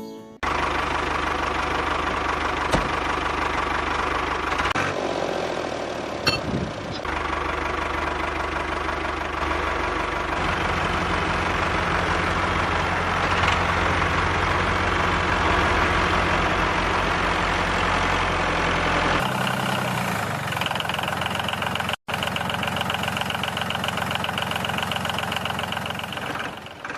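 A small motor running steadily, in several stretches that change abruptly from one to the next.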